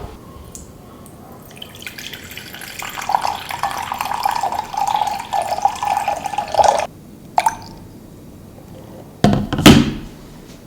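Water running from a tap into a container for about five seconds, then shut off abruptly. A short click follows, and near the end a heavier knock as something is set down.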